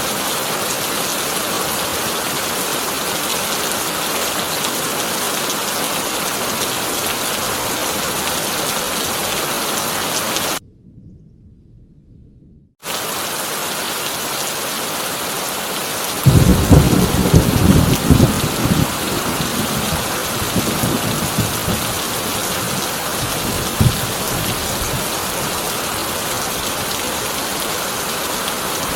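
Heavy rain drumming steadily on a corrugated tin roof. It cuts out for about two seconds, then a loud thunderclap breaks about halfway through and rumbles away over several seconds.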